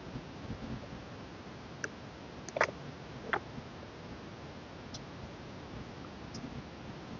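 Light clicks and taps of a CD album's packaging and inserts being handled, a handful of them over a steady low hiss, the sharpest about two and a half and three and a half seconds in.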